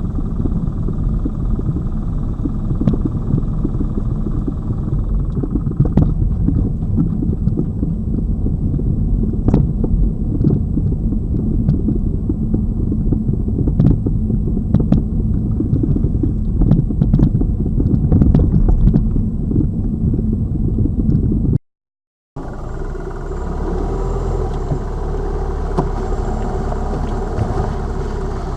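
Lada Vesta Cross driving over a rough road: a heavy low rumble of tyres and suspension, with scattered sharp knocks as the wheels hit bumps. The drive tests for a suspension knock that the owner traced to the shock absorbers, now replaced. About two-thirds through, the sound cuts out for a moment and comes back as a steadier engine and road hum.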